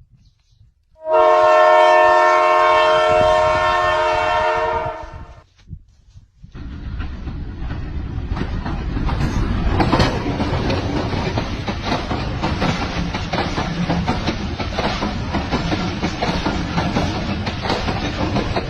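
A train horn sounds one long blast lasting about four seconds, then after a short lull the train passes close by, its wheels rumbling and clicking steadily over the rails.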